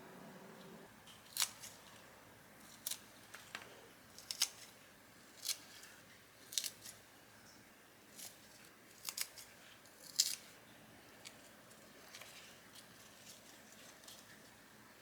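Kitchen scissors snipping: short, sharp snips roughly once a second, some in quick pairs, thinning out after about ten seconds.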